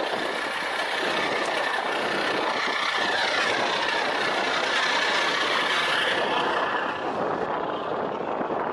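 Tugboat's Cummins 350 turbo diesel engine running steadily under way, the sound turning duller near the end.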